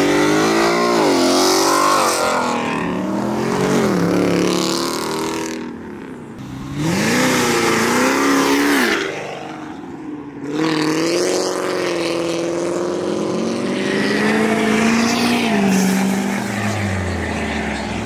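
Modified cars accelerating hard away one after another, their engines revving up through the gears, the pitch climbing and dropping with each shift. There are two short lulls, about six and ten seconds in.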